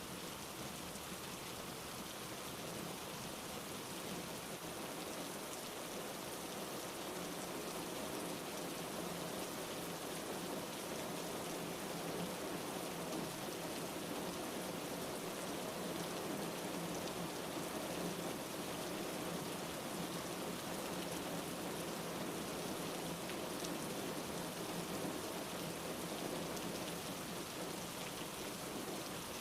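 Steady rain falling on a surface, an even hiss with no pauses.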